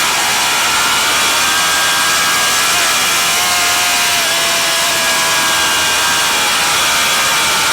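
Vintage racing motorcycle engine running hard at high revs, its pitch drifting slightly up and down, under a loud steady rush of noise.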